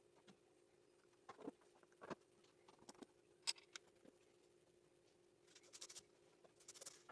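Near silence: a faint steady hum with scattered faint clicks and taps.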